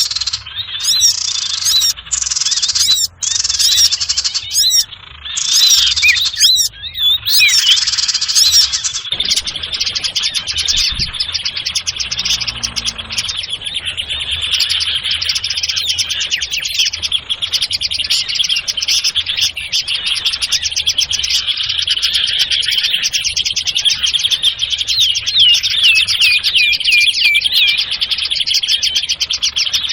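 Bird lure recording of sirtu birds: a busy, unbroken chatter of rapid high chirps and short trills from many calls at once. It drops out and comes back several times in the first nine seconds, then runs on without a break.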